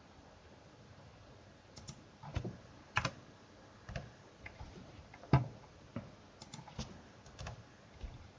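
Scattered key presses on a computer keyboard: about fifteen short, irregular clicks, starting about two seconds in.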